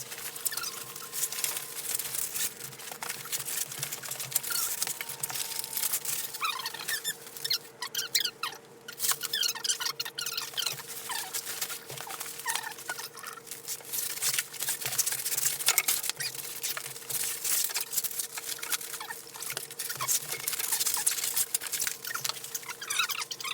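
Sped-up audio of foam packing wrap being handled around an outboard motor: constant crinkling and rustling, with short high squeaky chirps scattered through. A faint steady hum runs underneath.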